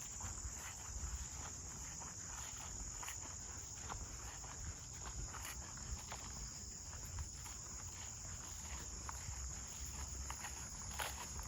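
Footsteps on a woodland trail, faint irregular crunches, over a steady high-pitched chorus of insects.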